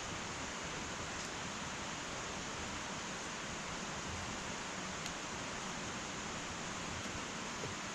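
Wood fire burning in an irori sunken hearth: a steady, even hiss with a few faint crackling ticks, about a second in, about five seconds in and near the end.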